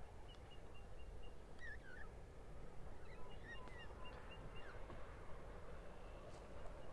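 Small birds chirping, with two quick runs of short high repeated notes, over a low steady background rumble.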